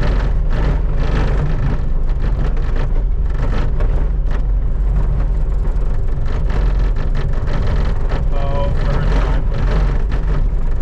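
Skid steer's diesel engine running steadily while its bucket scrapes snow off pavement, with repeated scraping and knocks.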